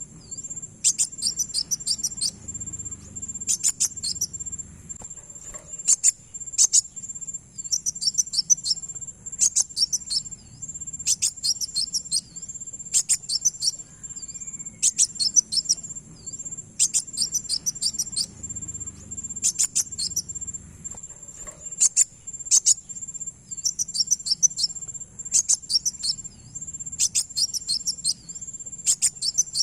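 Kolibri wulung (kowul) sunbird song used as a lure call: short clusters of rapid, very high chips and trills, repeating about every one and a half to two seconds, over a steady, continuous high-pitched whine like an insect's.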